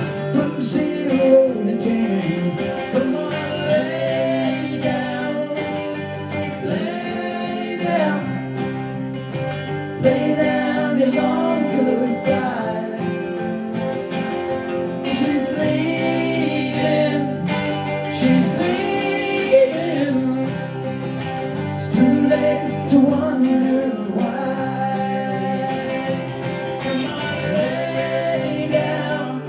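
Live band music: a folk-rock song on strummed acoustic guitar with an electric lead guitar, and a man singing, at a steady level.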